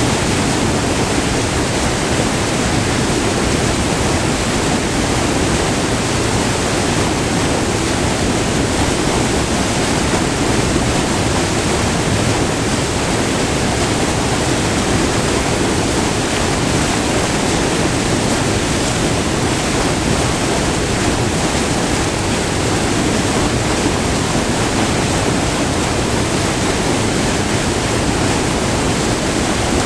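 Steady rush of white water over a short, multi-tiered river waterfall, heard up close.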